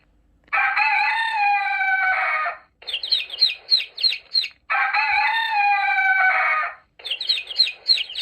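A rooster crows twice, each crow about two seconds long. Between and after the crows, chicks peep in quick, high, falling notes, several a second.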